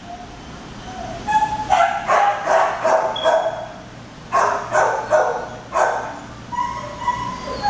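Several shelter dogs barking in their kennels, short barks in quick runs, with a few higher yelps and whines among them.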